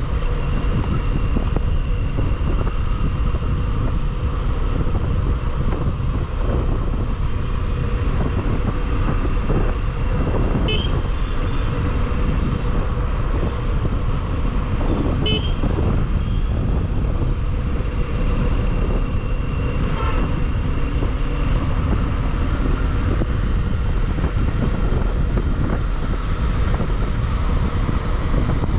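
Motorcycle riding at road speed: steady wind rush over the microphone with the engine running underneath, and two short horn toots about 11 and 15 seconds in.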